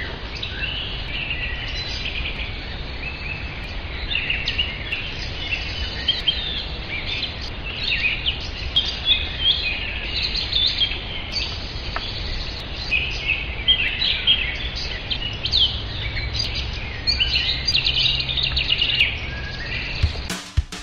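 Songbirds chirping and singing in short, quick overlapping phrases over a steady low rumble.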